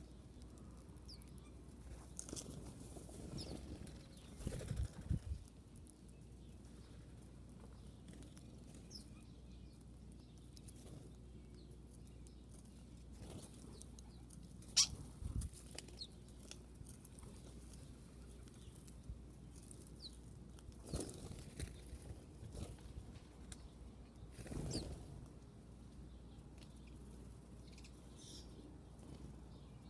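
Wild birds in the open: scattered wing flutters, rustles and taps, the sharpest a single tick about halfway, with a few short faint chirps.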